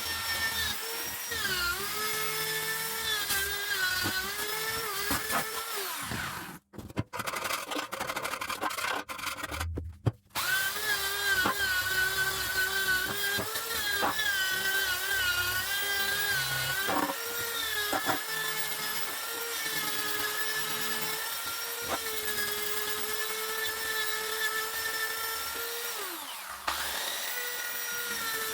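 Small electric power tool motor running at high speed, its whine wavering and dipping in pitch as it bears on the work. It cuts out briefly twice in the first half and sags in pitch near the end before picking back up.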